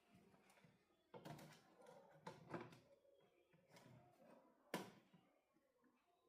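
Faint scattered clicks and knocks of small objects being handled, the sharpest one about three-quarters of the way through.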